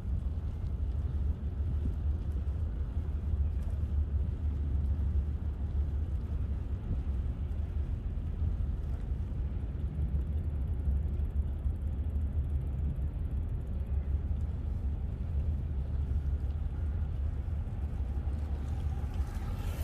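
Steady low rumble from a moving bicycle: wind buffeting the microphone and tyres rolling on the path.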